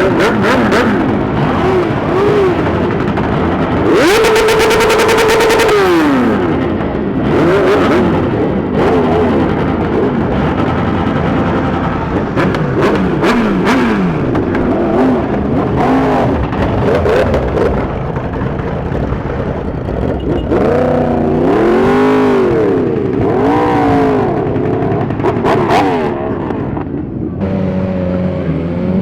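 Superbike engines revving hard, several overlapping, their pitch rising and falling with each blip of the throttle. About four seconds in one engine is held at high revs for roughly two seconds before dropping away.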